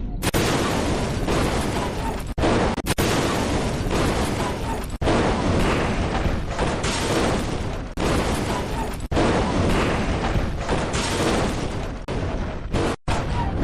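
Explosion sound effects: dense rumbling booms in back-to-back segments, each cut off sharply after one to three seconds.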